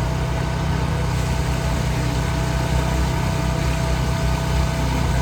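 An engine idling steadily: a low, even drone with a faint steady whine over it.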